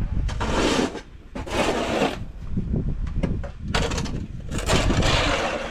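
Snow being cleared by hand in four scraping strokes, each under a second long.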